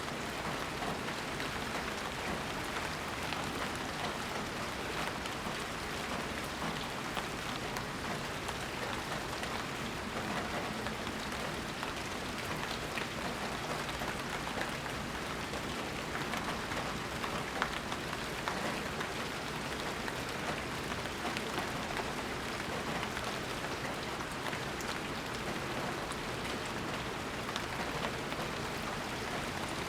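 Steady rain falling, a dense even hiss with fine drop patter on surfaces and no thunder.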